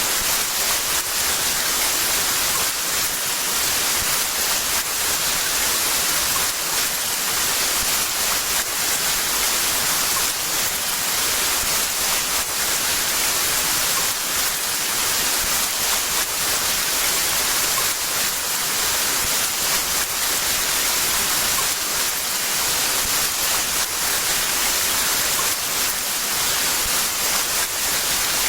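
Heavy rain falling in a steady, dense hiss, with faint patters of individual drops through it.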